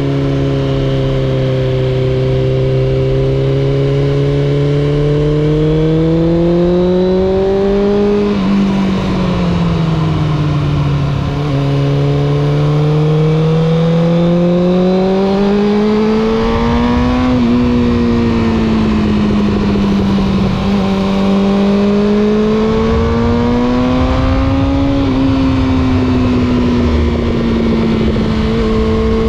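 Suzuki GSX600F inline-four motorcycle engine and exhaust under way. It climbs slowly in pitch as the bike accelerates and drops back about four times, at gear changes or when the throttle is eased.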